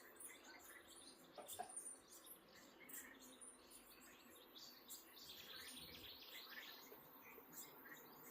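Faint birds chirping here and there, with a denser run of high calls about five seconds in.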